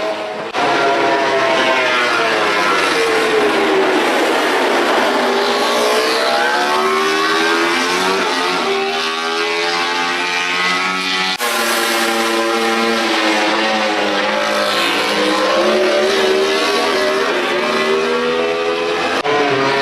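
MotoGP racing motorcycles' 1000 cc four-cylinder four-stroke engines revving hard, the pitch climbing through the gears and dropping on downshifts, again and again. The sound breaks off abruptly about half a second in and again about eleven seconds in.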